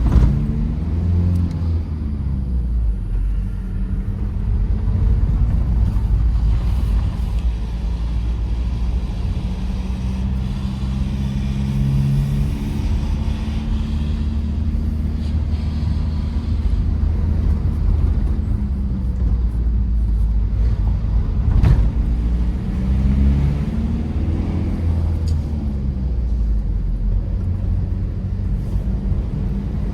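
Tata Safari Storme SUV driving, its 2.2-litre diesel engine running steadily over tyre and road noise, with the engine note rising and falling in places as speed changes. One sharp click or knock about two-thirds of the way through.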